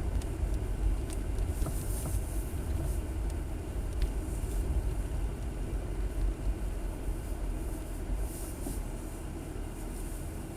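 Jeep driving: a steady low engine and road rumble, with a few faint sharp ticks in the first few seconds.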